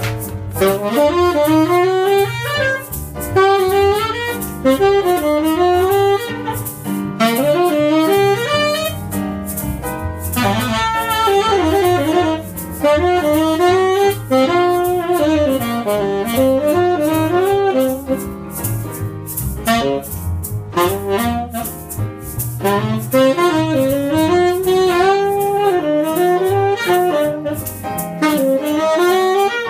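Tenor saxophone playing a jazz melody line over double bass and piano accompaniment, with no vocals.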